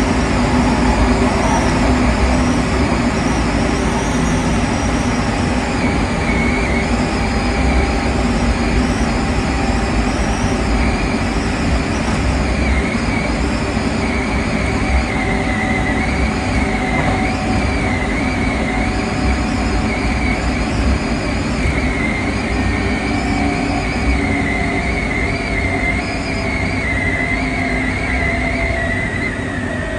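Hankyu 5100 series resistor-controlled electric train running, heard from the driver's cab: steady rumble of wheels on rail with a high, wavering wheel squeal. Near the end a motor tone falls and the noise eases as the train slows into a station.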